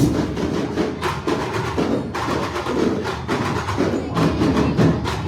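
Music driven by fast percussion, with wood-block clicks and drums.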